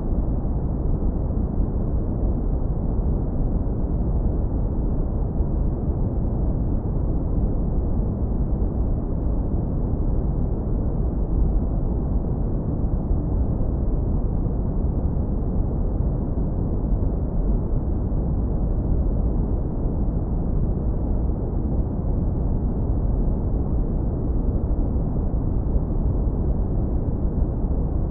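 Synthetic brown noise, heavily low-pass filtered so that only a deep, muffled rumble remains, running steady and unchanging.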